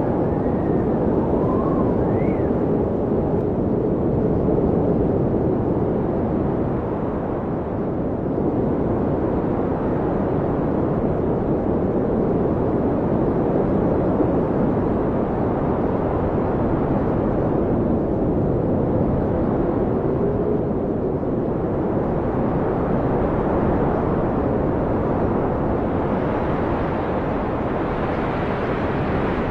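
Blizzard wind blowing hard: a steady, loud, low rushing roar with a few faint whistling howls that rise and fall, near the start and again about two-thirds through.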